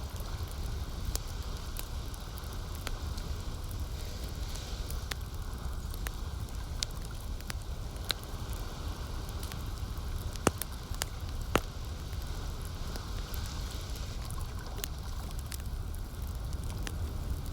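Campfire crackling, with scattered sharp pops and two louder snaps about two-thirds of the way through, over a steady low wash of lake water.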